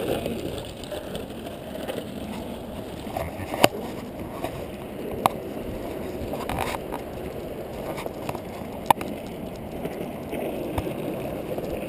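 Skateboard wheels rolling steadily over pavement, a continuous rumble broken by a few sharp clicks.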